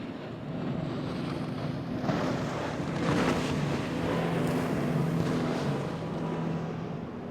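Motorboat engine running with a steady low hum, with rushing surges of water and wind noise over it.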